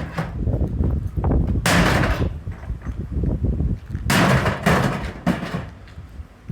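An old microwave oven being smashed: two loud crashes about two and a half seconds apart, with smaller knocks and rattles between them. Wind rumbles on the microphone throughout.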